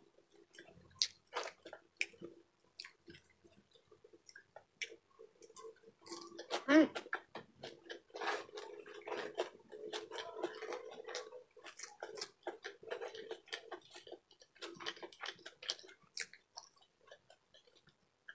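Close-miked chewing with wet mouth clicks and lip smacks: a person eating adobo and rice wrapped in lettuce by hand. One brief louder pitched mouth sound comes about seven seconds in.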